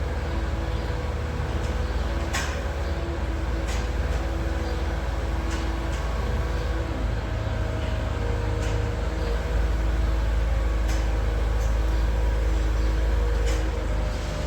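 Tractor engine running steadily with a deep rumble, with a few short clicks or knocks scattered through it.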